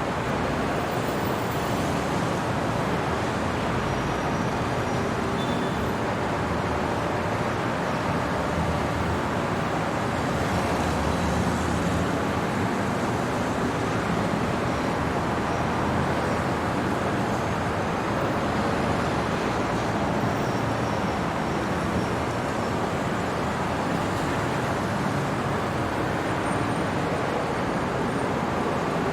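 Steady city traffic noise: an unbroken hum of road traffic with no single vehicle standing out.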